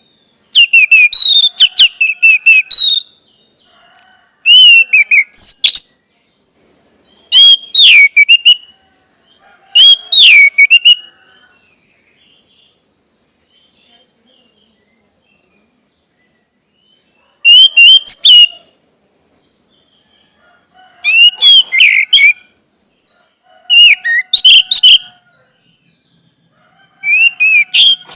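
Orange-headed thrush singing loud, varied phrases of sliding whistled notes, about eight phrases with a pause of several seconds in the middle, over a steady high hiss. This is the song used as a 'pancingan' to provoke a caged male to sing.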